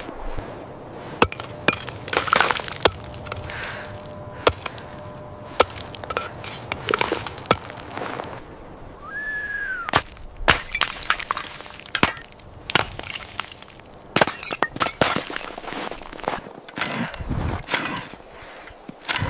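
An irregular series of sharp cracks and knocks, like something being broken or chopped, with a short squeak that rises and falls about nine seconds in.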